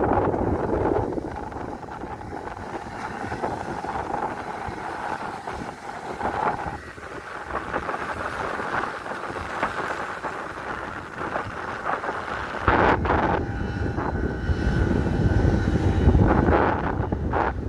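Strong wind buffeting the microphone over the steady drone of a fishing boat's engine. Heavier gusts set in about two-thirds of the way through.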